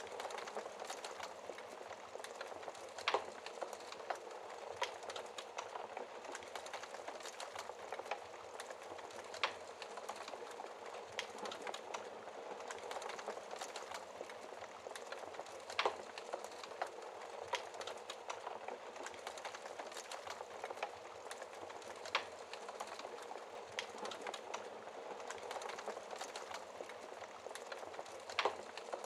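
Wood fire burning in a fireplace: a steady crackle of small snaps and ticks, with a few louder pops from the burning logs.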